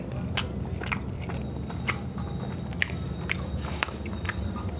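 A man chewing a mouthful of chicken biryani rice close to a clip-on microphone: soft, wet mouth clicks and smacks, irregular, about two or three a second.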